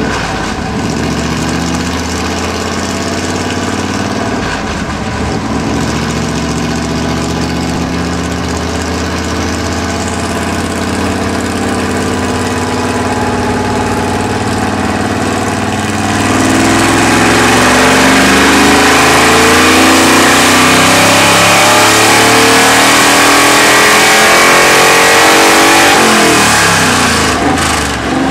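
1970 Chevy C10 pickup's engine running steadily on a chassis dyno, then, about halfway through, going to full throttle and climbing steadily in revs for roughly ten seconds in a dyno power pull, before the revs drop off near the end.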